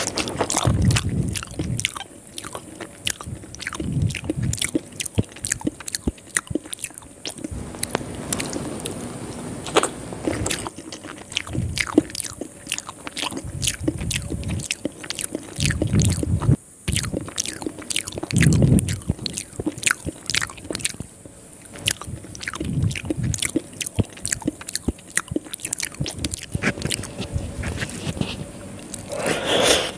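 Close-up eating sounds of a person chewing mouthfuls of soft rice noodles (string hoppers) eaten by hand: many wet mouth clicks and smacks, with louder bursts of chewing every few seconds. The sound drops out briefly just past halfway.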